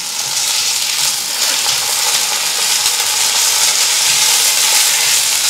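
Onions, green chillies and ginger-garlic paste sizzling steadily in hot oil and ghee in a cast-iron kadai while being stirred with a spatula.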